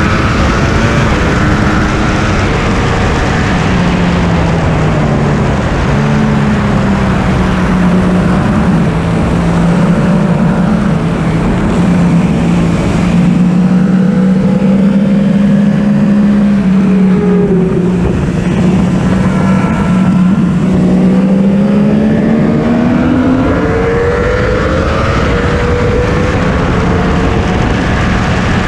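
Yamaha R1 inline-four engine running at moderate, fairly steady revs, the pitch swelling and easing gently with one longer rise near three-quarters of the way through, under heavy wind rush on the onboard camera.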